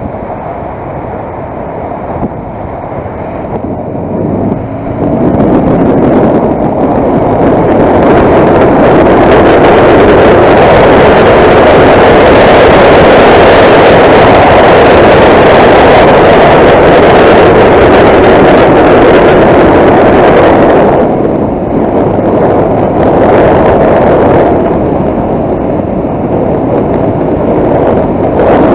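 Motorcycle riding at speed: loud wind rush over the microphone mixed with engine and road noise, building about five seconds in, holding steady, then easing and rising again twice near the end.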